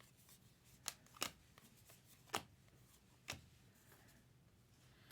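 2023 Topps Allen & Ginter baseball cards being handled and flipped through by hand: about four short, soft card snaps or slides in the first few seconds, with near silence between them.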